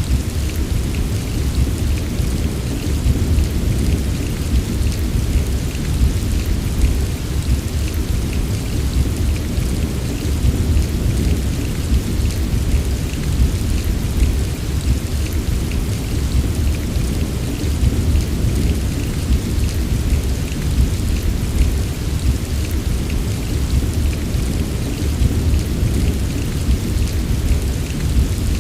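Steady heavy rain, a dense even patter, over a continuous low rumble.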